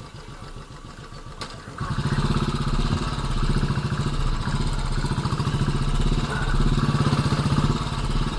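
Royal Enfield Classic 350's single-cylinder engine running with an even, pulsing beat, getting much louder about two seconds in. A click shortly before it gets louder.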